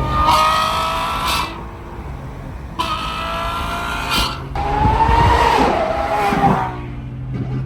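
Lamborghini Revuelto's V12 through a full race exhaust, revving hard in three surges, the note falling back between each, then settling to a lower, steady note near the end.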